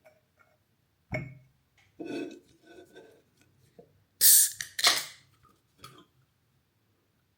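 Household objects being handled indoors: a knock about a second in, some clinking and clattering, then two loud rustling rushes and a last short knock.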